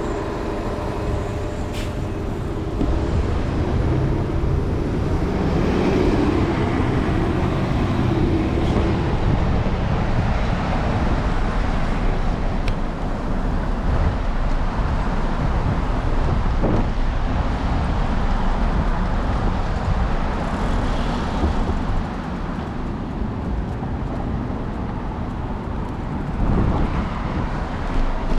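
City street traffic: cars and other vehicles passing, with a steady low rumble throughout. A faint engine hum fades out over the first few seconds.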